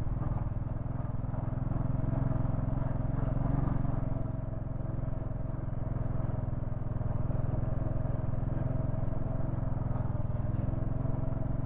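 Royal Enfield Thunderbird 500's single-cylinder engine running steadily at low revs as the motorcycle is ridden slowly over a rough, slippery track.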